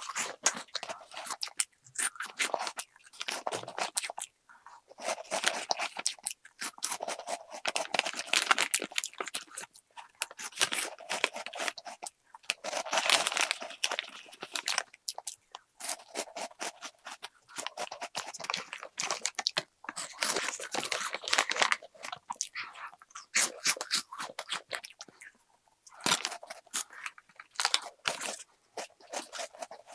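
Close-miked crunching and chewing of a crunchy packaged snack, in repeated clusters of crisp crunches with short pauses between mouthfuls. A plastic snack bag rustles as a hand reaches into it.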